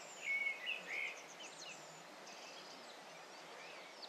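Small songbirds chirping and calling, with a cluster of louder quick chirps in the first second or so, then fainter calls over a faint steady background hiss.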